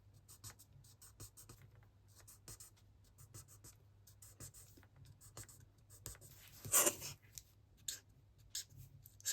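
Felt-tip alcohol marker (Stampin' Blends) dabbing and stroking on cardstock in many short, quick scratches, colouring in dark yellow, with one longer, louder rub about seven seconds in.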